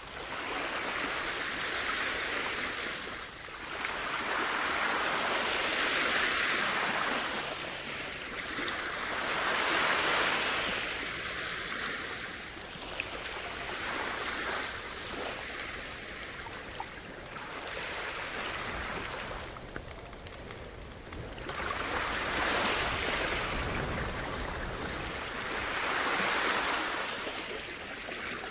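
Sea waves washing onto a shore, swelling and falling in slow surges about every four seconds, with a quieter lull in the middle.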